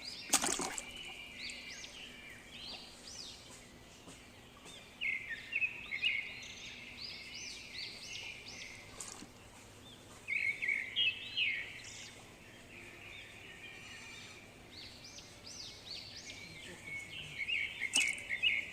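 Small birds chirping in clusters of quick, short notes, with a faint steady hum underneath.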